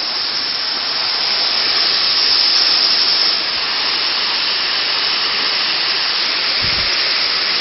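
Small waterfall rushing in a steady hiss of falling water, swelling slightly about two to three seconds in. A brief low bump comes near the end.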